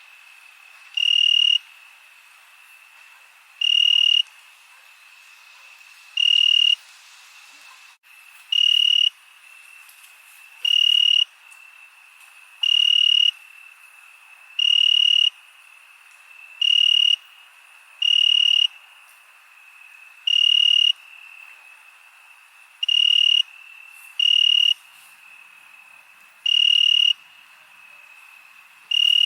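Crickets chirping at night: a steady high trill in the background, and one loud cricket giving a half-second chirp about every two seconds, sometimes twice in quick succession.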